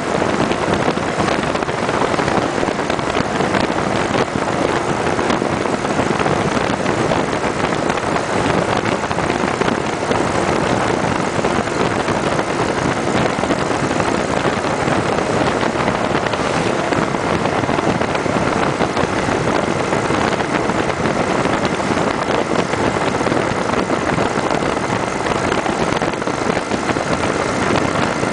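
Steady rush of wind and road noise from a motorcycle riding at speed, the Kawasaki Vulcan 900 Custom SE's V-twin engine running underneath.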